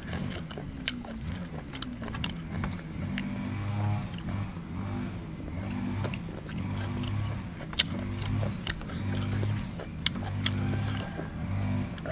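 A man chewing and smacking his lips while eating, with many sharp wet mouth clicks over a low hum that pulses on and off.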